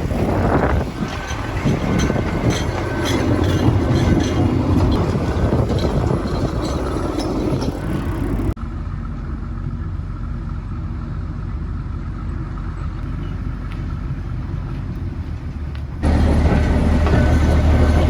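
Narrow-gauge passenger train running on its rails, with a steady rumble and scattered clicks. The sound cuts abruptly to a quieter stretch about halfway through. Near the end it cuts again to a louder steady low engine hum.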